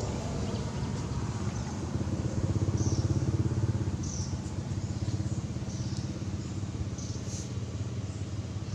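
A small engine running steadily with a fast even firing pulse, briefly louder a few seconds in.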